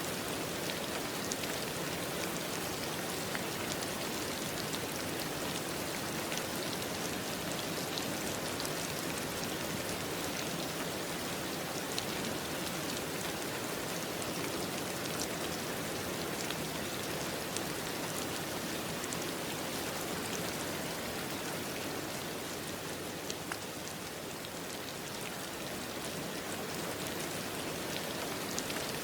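Steady rain falling, an even hiss with scattered drop ticks, easing slightly for a few seconds past the middle.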